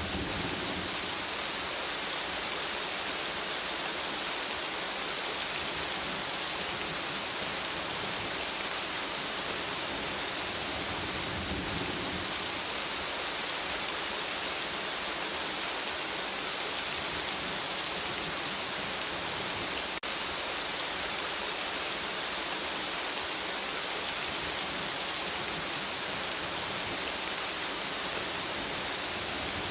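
Steady rain falling in a forest, an even hiss with no breaks, and a brief low rumble about twelve seconds in.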